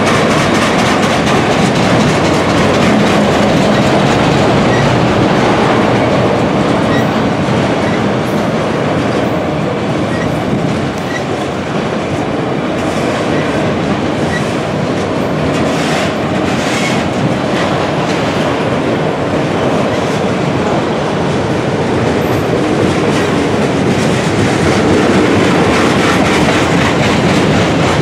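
A long string of autorack freight cars rolling past, their steel wheels clacking over the rails in a steady, loud rumble.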